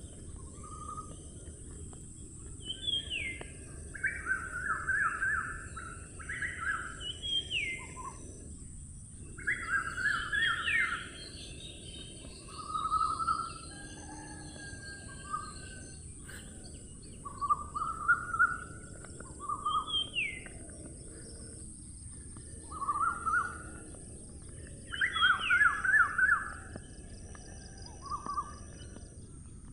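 A songbird singing in repeated phrases every two or three seconds: a quick high whistle that slurs downward, then a burst of fast chattering notes, over a steady low background hum.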